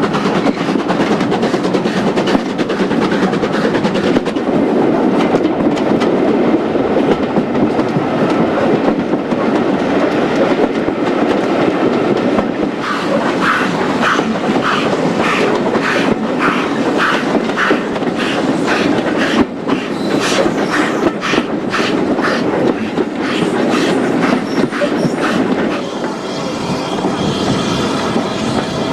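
Passenger train hauled by a 2-8-0 tank steam locomotive, running along the track: a steady rumble of wheels on rails. From about halfway through it carries a regular clicking, and near the end a thin high squeal.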